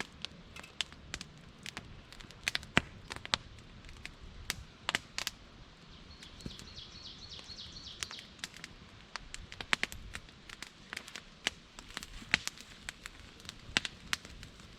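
Wood campfire crackling, with frequent sharp, irregular pops. A bird sings briefly in the middle.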